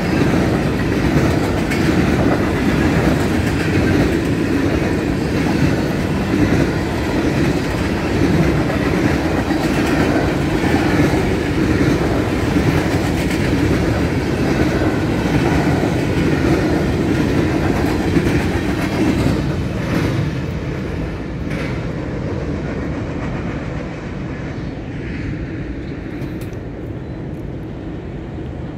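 Norfolk Southern freight cars (hoppers and tank cars) rolling past over a grade crossing, a steady rumble of steel wheels on rail. After about twenty seconds, as the end of the train goes by, it falls off to a fainter rumble, with a couple of sharp clanks.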